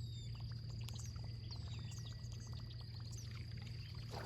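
Birds chirping in short, falling high calls over a steady low hum, with faint scattered ticks.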